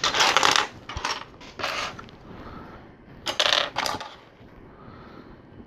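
Loose plastic LEGO pieces clattering and clicking together as a hand sifts through them, in several short bursts.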